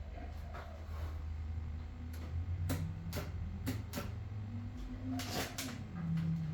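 A steady low hum with a few sharp clicks and knocks about midway and a cluster of them near the end, like parts and tools being handled at a machine.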